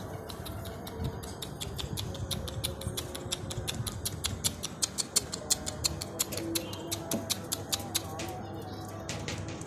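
Rapid, even clicking, about five clicks a second, with faint low cooing of pigeons beneath it.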